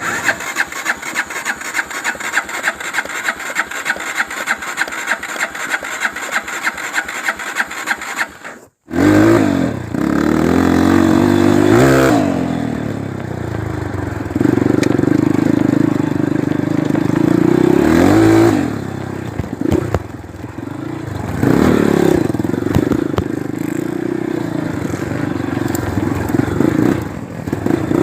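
Trail motorcycle's single-cylinder four-stroke engine being cranked by its electric starter, an even whirring pulse of about four beats a second for several seconds. About nine seconds in the engine is running, then revved up and down several times while idling in between.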